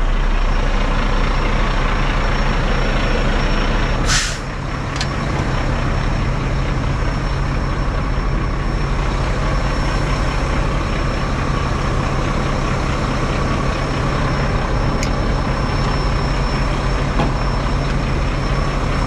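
Semi truck's diesel engine idling steadily, with one short sharp hiss of air about four seconds in, typical of the truck's air brakes.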